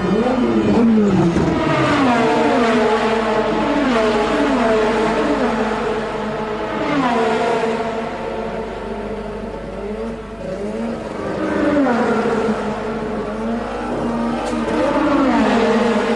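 1984 Formula One race car engines revving hard, their pitch repeatedly falling away and climbing again as the cars brake, shift and accelerate past.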